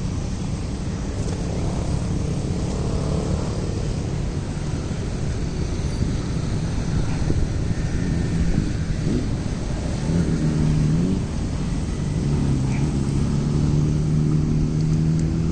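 Street traffic: a steady low rumble, with the engines of passing vehicles droning more clearly in the second half.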